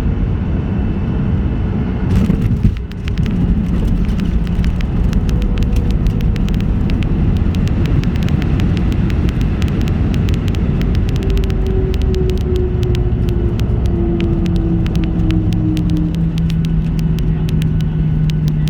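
Boeing 737-800 cabin noise on landing: a loud rumble, a sharp jolt about two seconds in that fits the touchdown, then the rolling rumble of the rollout with rapid rattling clicks and engine tones slowly falling in pitch.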